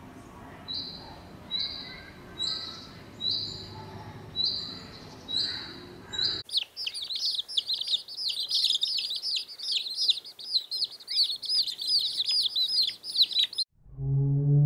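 Bird calls: a series of about seven short, high, even whistled notes a little under a second apart, then, about six and a half seconds in, dense rapid chirping of many birds that stops abruptly. A low steady tone starts just before the end.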